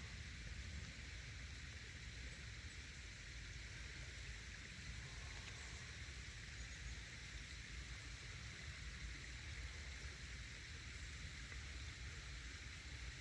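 Faint, steady outdoor ambience: a low rumble under an even hiss, with no distinct events.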